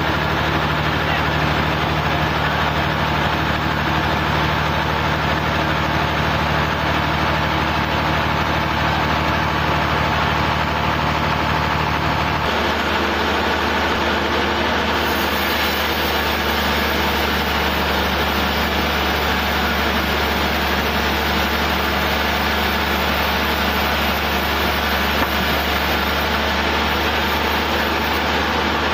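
Sawmill engine running steadily. About twelve seconds in its tone shifts as a low hum drops away.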